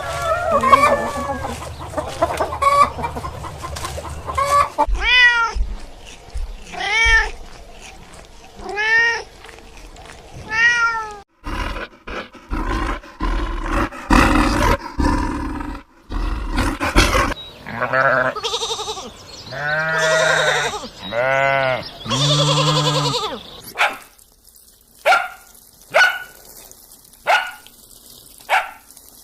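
A run of different animal calls, one recording after another, changing every few seconds. It includes a set of repeated rising-and-falling calls about two seconds apart and, near the end, a series of short calls.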